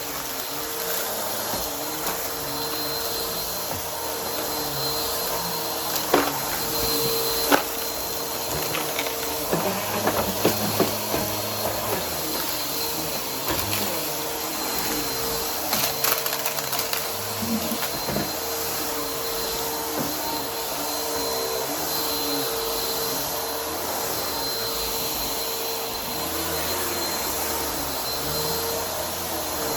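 Vacuum cleaner running steadily with its brushroll spinning and a steady motor whine, with a few sharp crunches and clicks now and then as debris is sucked up.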